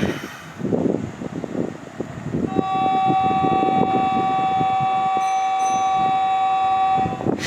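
Kintetsu train rumbling on the rails, then a horn sounding one long steady note for about four and a half seconds.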